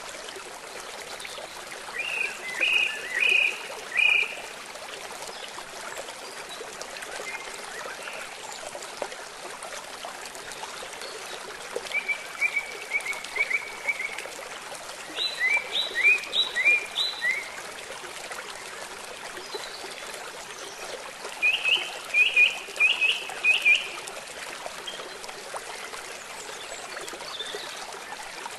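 Steady rush of running water with four bursts of rapid, repeated chirping calls, about two seconds in, around twelve, around fifteen and around twenty-two seconds.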